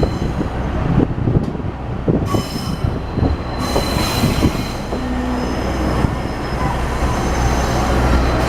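A KiHa 40 series diesel railcar rolling slowly over curved yard track, heard from on board: the wheels squeal in a thin high steady tone while the wheels knock irregularly over the track, over a low rumble that strengthens about halfway through.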